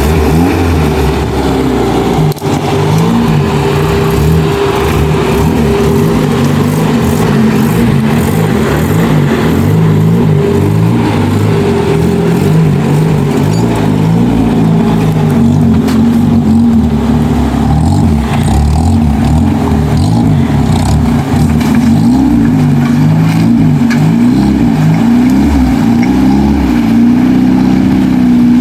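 Suzuki 4x4's engine working hard off-road, its revs rising and falling continually as it drives the trail.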